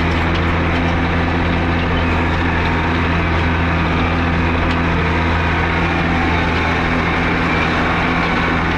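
Big John Deere rubber-tired wheel loader's diesel engine running at a steady speed as the loader travels along, a constant low drone.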